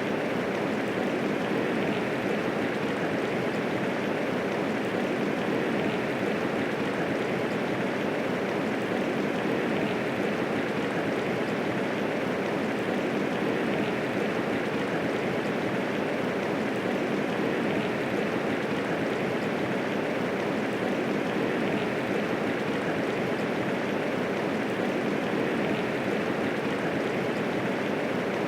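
Steady medium rainfall, an even hiss of falling rain with no thunder.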